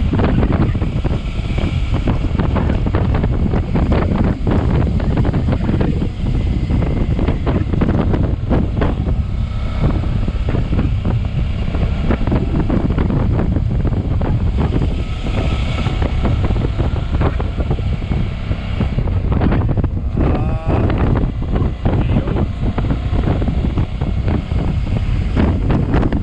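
Heavy wind buffeting on the microphone of a moving motorcycle, over the bike's engine and road noise.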